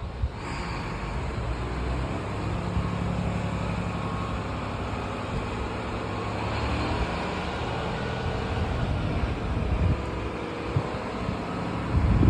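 Heavy diesel bus engine running with a steady low hum, getting louder briefly near the end.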